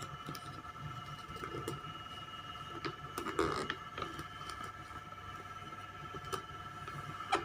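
Origami paper being handled and folded by hand: scattered soft crinkles and taps as the paper is creased, with a cluster of rustling about three and a half seconds in, over a steady faint electrical hum.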